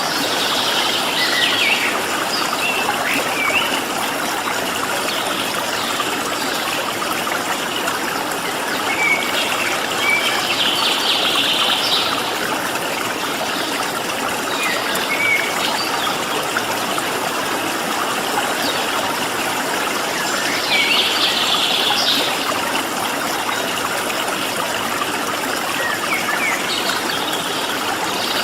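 Water flowing steadily in a stream. Small birds chirp and trill over it in several short spells.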